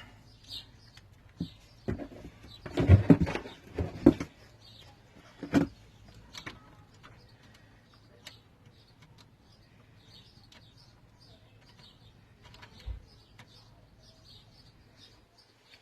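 A burst of knocks and clatter from metal parts and tools being handled a couple of seconds in, with one more knock shortly after. Birds then chirp in short repeated calls in the background.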